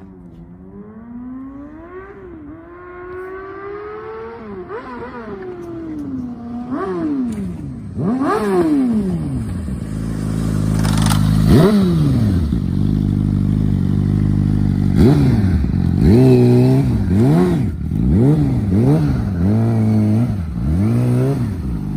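2010 Yamaha R6's inline-four engine revving: a swelling, rising engine note over the first several seconds, then repeated sharp throttle blips, each rising and falling in pitch, over a steady low drone, growing louder toward the end.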